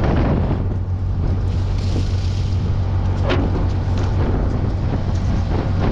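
Strong wind buffeting the microphone, over the steady hum of an engine running. There is a single sharp click about three and a half seconds in.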